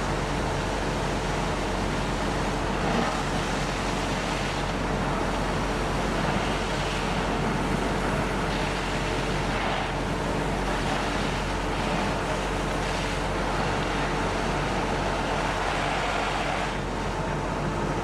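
A fire truck's engine running steadily at a fixed speed, a constant drone with a rushing noise over it.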